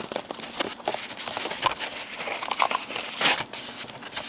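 Cardboard fried-chicken takeout box being opened by hand: crinkling, crackling and scraping of the box and paper liner, with a louder scrape a little past three seconds in.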